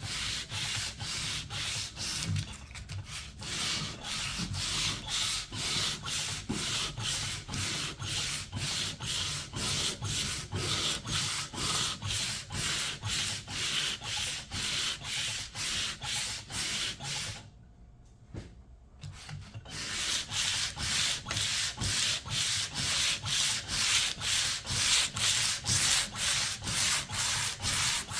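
Hand sanding: sandpaper rubbed back and forth over painted wood in even strokes, about two a second, stripping old paint and finish. The strokes stop for about two seconds some two-thirds of the way through, then carry on.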